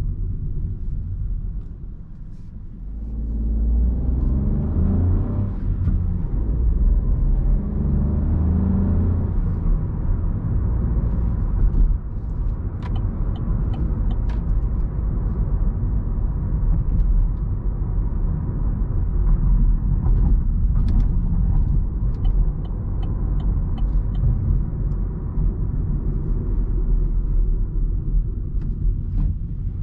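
Engine and road noise of a 2020 Opel Astra with a 1.2-litre 130 HP turbo three-cylinder petrol engine, heard from inside the car while driving. After a brief lull about two seconds in, the engine note rises in pitch as the car accelerates, then settles into a steady low rumble at cruising speed, with a few light clicks now and then.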